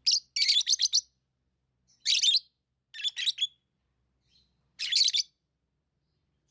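Lovebirds chirping: five short bursts of rapid, high-pitched shrill chirps, separated by pauses of about a second.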